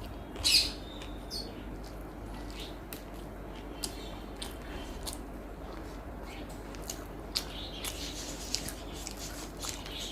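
Close-miked eating sounds: a person chewing with small wet mouth clicks and smacks, with one sharp louder smack or bite about half a second in.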